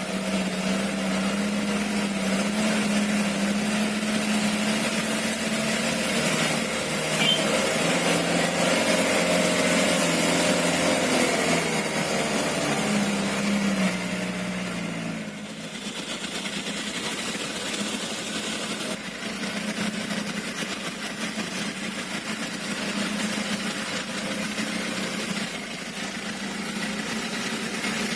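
Diesel engine of a Hino Dutro truck overloaded with sand, running steadily under load for about fifteen seconds, then dropping off to a lower, quieter run.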